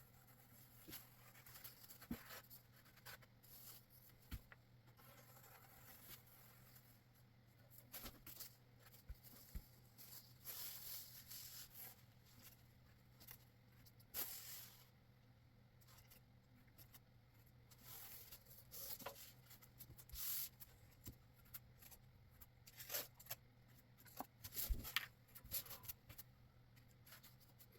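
Faint, scattered handling sounds of roadbed being glued down on a layout table: small clicks, taps and scraping rustles, some a little louder around the middle and near the end, over a low steady hum.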